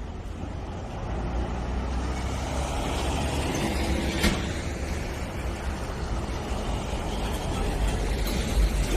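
A heavy vehicle's engine running with a steady low rumble that slowly grows louder, and a single sharp click about four seconds in.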